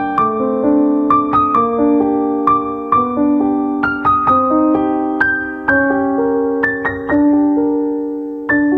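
Background music: a gentle piano melody of single struck notes, each ringing and fading before the next.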